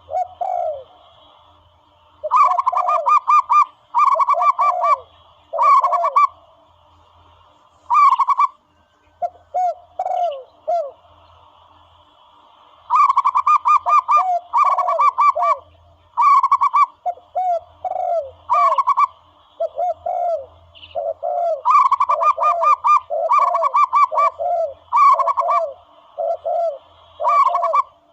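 Zebra dove (bato-bato) calls played as a hunting lure: clusters of rapid staccato cooing notes alternating with single lower, downward-slurred coos, repeating in bursts with short pauses between.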